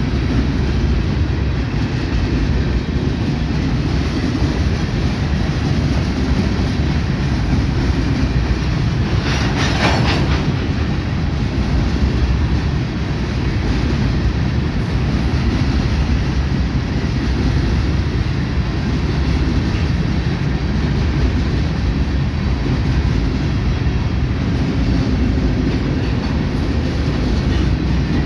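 Freight train cars rolling past, with a steady loud rumble and clatter of wheels on the rails. About ten seconds in there is a brief higher, hissing burst.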